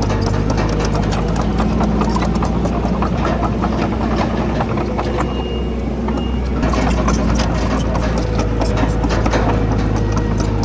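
Heavy diesel earthmoving machinery running steadily, with frequent clanks and rattles over the engine hum. The engine eases off a little about four seconds in and picks up again about seven seconds in.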